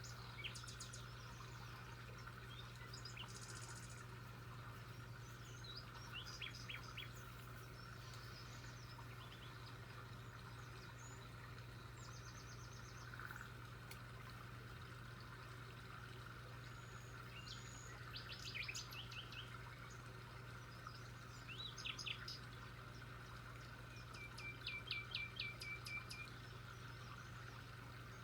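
Songbirds chirping in short bursts of quick repeated high notes, several times, the longest trill near the end, over a steady low hum.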